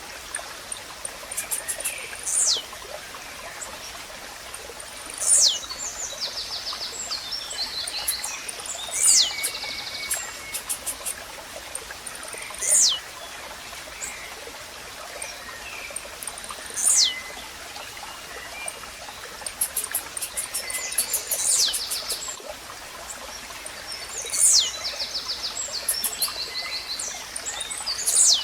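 Blue-black grassquit (tizil) singing a short, sharply down-slurred note, repeated about every three to four seconds. Underneath are a steady trickling stream and other small birds' rapid ticking chirps.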